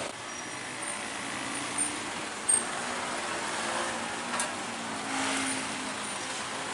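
Passing road traffic: a steady rush of vehicle noise, with two brief sharp sounds about two and two and a half seconds in and a swell of a passing engine near the end.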